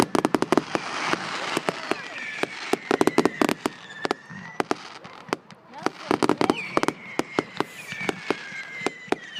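Firework display: rapid volleys of sharp crackling bangs coming in clusters, with high whistling tones drifting through now and then.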